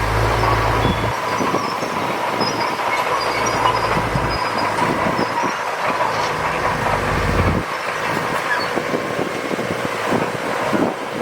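Crawler bulldozer working: diesel engine running under a steady clatter of steel tracks, with high squeals from the track links and rollers.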